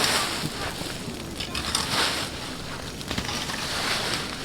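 Large brush bonfire burning: a steady hiss with scattered crackles and pops.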